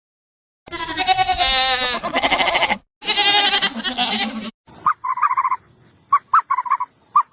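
A goat bleating: two long, wavering calls. From about the middle on they are followed by a run of short, high squeaks from a different small animal.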